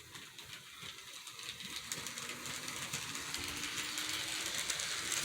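HO scale model train running on the track: a small electric motor hums, and the wheels click rapidly over the rails. The sound grows steadily louder as the train comes closer.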